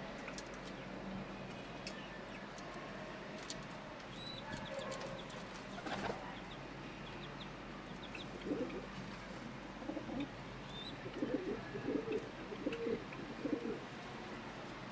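Pigeons cooing in a run of low, pulsing phrases in the second half, with small birds chirping faintly over a steady low hum.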